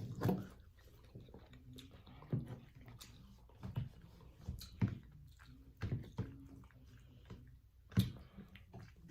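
Chewing and wet mouth sounds of someone eating creamy buffalo chicken cavatappi mac and cheese, with scattered soft smacks and clicks.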